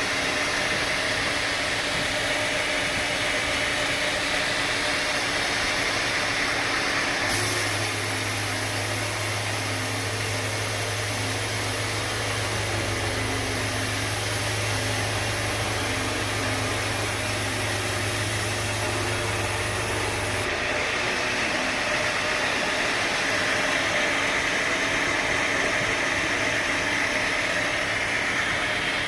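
Sawmill machinery running steadily. From about seven seconds in, a deep steady hum and a hiss join it for about thirteen seconds, starting and stopping abruptly.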